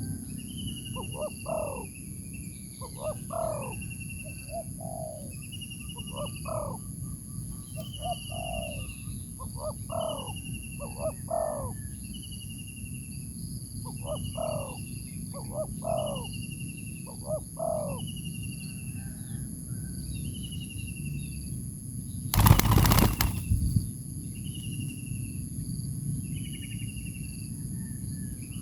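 Dove calls: short low cooing phrases of two or three notes, repeated every couple of seconds. Between them a thin high note slides downward again and again over a steady high drone. A loud burst of noise lasting about a second comes about 22 seconds in.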